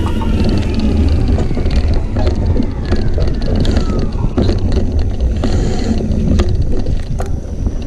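Mountain bike riding over rough trail: a steady low rumble of wind and tyres on the camera's microphone, with frequent sharp clicks and rattles from the bike.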